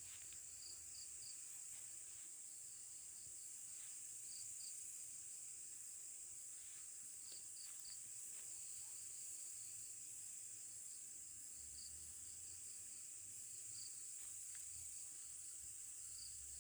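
Faint night insect chorus of crickets: a steady high-pitched drone, with short chirps in small groups every few seconds.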